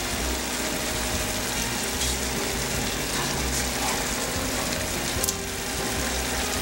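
Chicken wings frying in a pan, a steady sizzle as barbecue sauce is poured over them, with quiet background music underneath.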